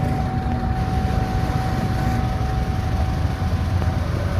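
Diesel locomotive of the KA Sawunggalih passenger train running, a steady low rumble with a thin steady whine over it as the train sets off.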